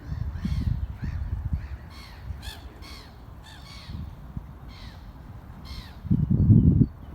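Gulls calling in a rapid series of short, harsh calls, about two or three a second, thinning out after the first half. A low rumbling noise runs underneath and swells loudest near the end.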